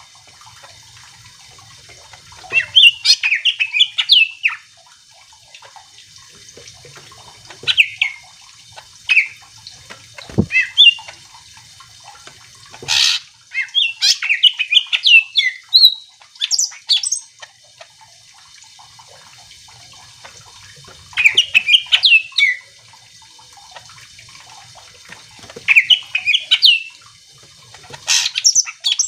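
Green leafbird (cucak ijo) singing: loud bursts of rapid, jumbled high chirps and trills, repeated every few seconds with short pauses between. A single low thump about ten seconds in.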